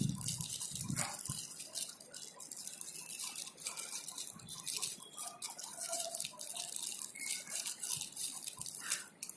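Thin plastic packaging crinkling and rustling as it is handled, a dense irregular run of sharp crackles.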